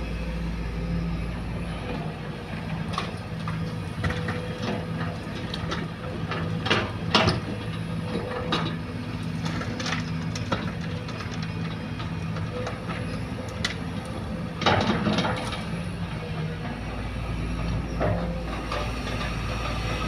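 Sumitomo hydraulic excavator's diesel engine running steadily while it loads soil into a dump truck, with knocks and rattles of the bucket and dropping earth, the loudest clusters about seven seconds in and again around fifteen seconds.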